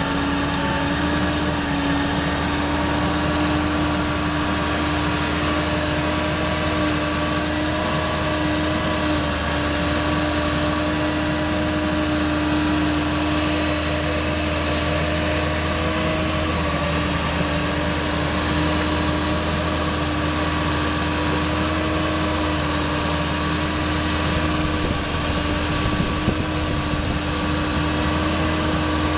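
Ford 7.3L Power Stroke V8 diesel running at a steady idle, a constant hum with a steady whine over it.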